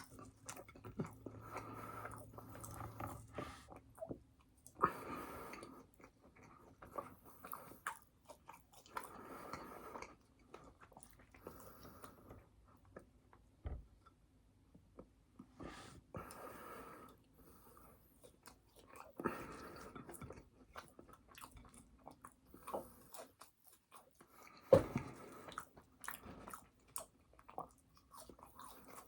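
Close-miked chewing and biting of a fast-food hamburger and fries: irregular mouth clicks and crunches, with a louder bite every few seconds.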